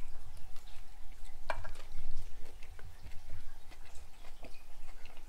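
A man chewing a bite of fish taco in a flour tortilla: soft, irregular mouth clicks and smacks.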